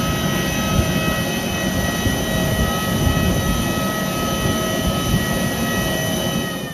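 Airbus A321neo on the ground: a steady jet rumble with several constant high whining tones over it, stopping abruptly near the end.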